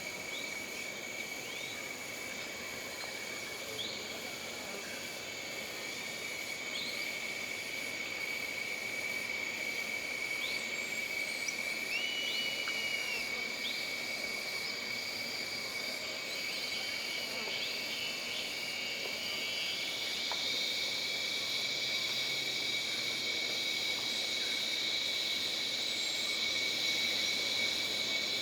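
Jungle ambience of insects buzzing steadily at several high pitches, with scattered short rising chirps. A higher insect chorus swells about two-thirds of the way through.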